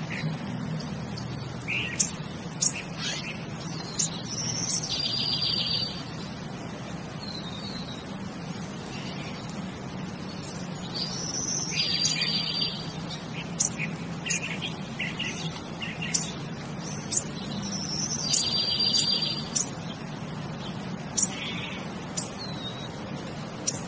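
Birds chirping and trilling in short high phrases. The same sequence of calls comes back about every seven seconds, over a low steady hum.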